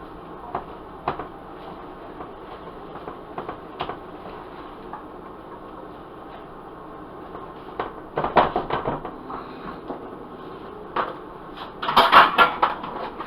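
Kitchen cookware clatter: scattered clicks and knocks of pots, a lid and utensils, with a burst of clattering about eight seconds in and again near the end, over a steady low hiss.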